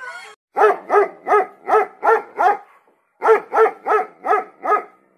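The end of a wolf howl falling away at the start, then a dog barking rapidly, about three barks a second, in two runs of six with a short pause between.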